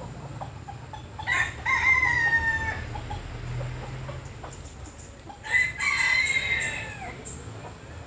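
A rooster crowing twice, each crow a long call of about a second and a half, the two about four seconds apart.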